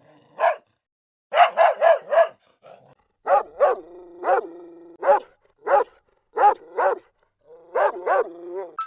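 A dog barking repeatedly, in uneven runs of one to four short barks.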